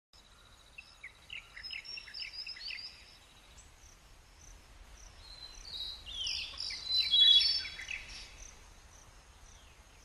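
Several birds chirping and calling, with many quick downward-sliding notes, busiest and loudest a little past halfway. A high, steady pulsing trill runs under the first few seconds.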